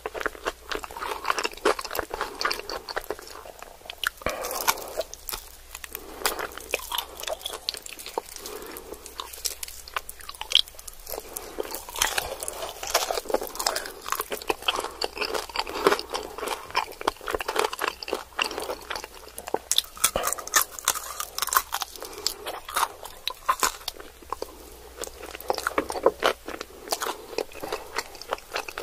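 Close-miked chewing and biting of fried chicken wings: crunching bites of the fried coating and chewing, with many irregular crackles.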